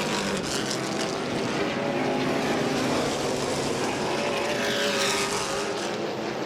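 A field of modified race cars running at racing speed, their engines droning in a dense, steady mix with pitch shifting as the cars go past.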